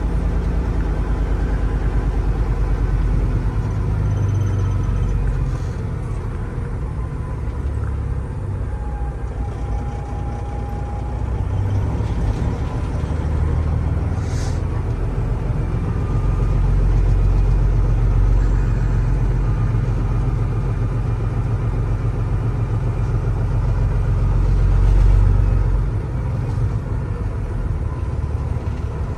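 Semi-truck diesel engine running, a steady low rumble that swells and eases a couple of times.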